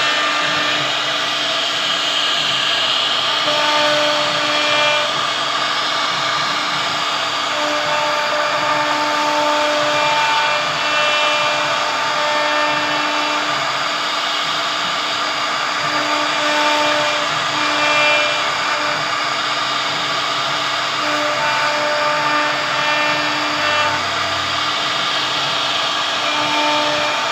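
A CNC wood router running steadily, its spindle cutting into wood. Throughout there is a continuous whirring noise, with a hum that comes and goes every second or two.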